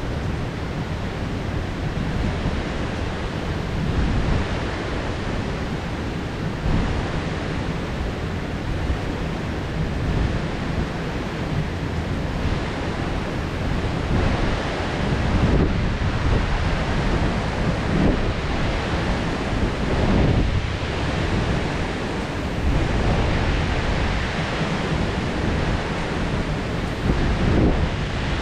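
Heavy rain from a tropical downpour falling steadily, a dense hiss, swelling louder several times in the second half.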